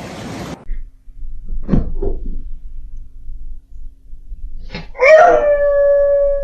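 A dog howling: one long, steady howl starting about five seconds in that drops in pitch as it ends, after a couple of short, fainter sounds near two seconds in.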